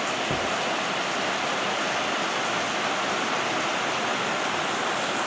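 Steady heavy rain falling, an even hiss of rain on foliage and ground, with a faint low thud about a third of a second in.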